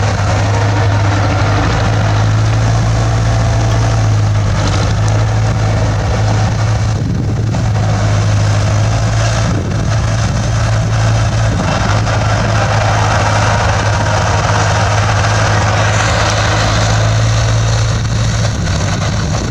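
Bulldozer's diesel engine running steadily under work, a deep steady hum with a broad mechanical noise over it.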